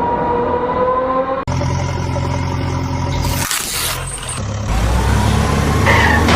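Truck engine running and revving, with a low steady drone and a slowly rising whine over the first second or so, broken by abrupt cuts.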